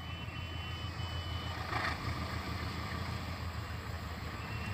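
Low rumble of a distant approaching train, slowly getting louder. Three short high beeps come near the start.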